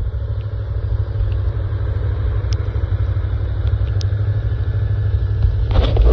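ATV engine running under a heavy, jagged low rumble. A few sharper clattering sounds come in near the end.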